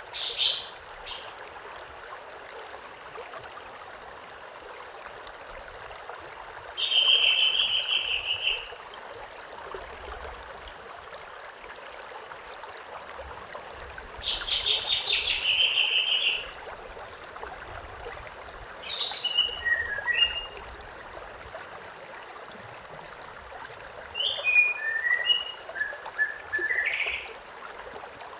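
A stream running steadily, with a bird singing over it in separate phrases: two short calls at the start, a fast trill of about two seconds around a quarter of the way in and again near the middle, then two bursts of short, quick notes toward the end.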